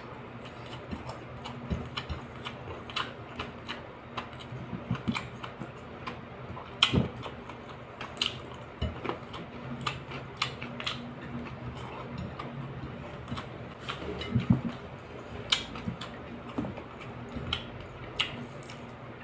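Close-up eating sounds of a person chewing fried marinated lizardfish (kalaso) with rice eaten by hand: irregular wet clicks and smacks of chewing and lips, over a steady low hum.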